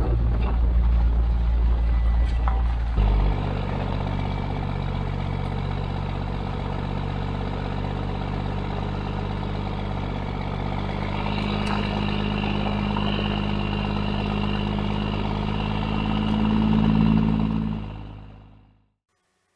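Truck engine running steadily as the truck drives, its pitch shifting once about three seconds in; the sound fades out near the end.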